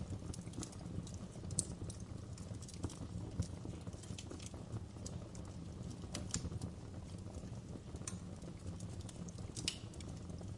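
Wood fire burning in a fireplace: a steady low rumble of the flames with irregular crackles and a few sharper pops of the burning wood.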